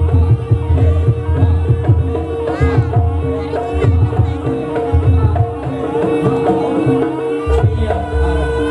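Live jaranan accompaniment music: hand drums play a busy rhythm over a steady held tone and melodic lines.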